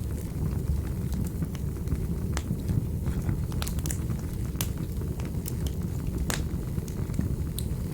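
Wood fire burning in a fireplace: a steady low rush with scattered, irregular sharp crackles and pops.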